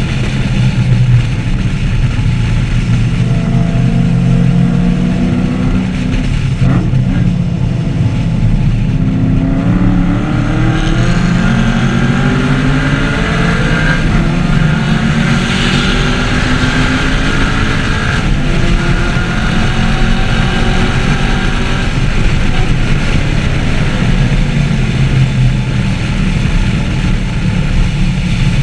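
2014 Chevrolet Camaro 1LE's V8 engine running hard at track pace. Its pitch repeatedly climbs under acceleration and drops with gear changes and lifts, with a sharp drop about seven seconds in.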